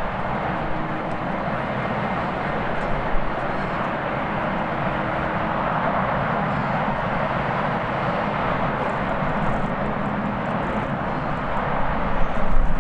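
Jet airliner engines heard as a steady, even rush of noise, with a faint steady hum for the first half.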